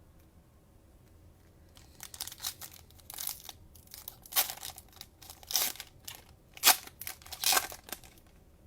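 Crinkling and tearing of a cellophane trading-card pack wrapper being ripped open and handled: a run of sharp rustles and rips starting about two seconds in.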